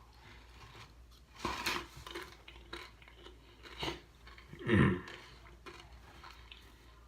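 Crunching of corn chips being bitten and chewed with the dip, in a few crisp bursts. About five seconds in there is a short vocal sound falling in pitch.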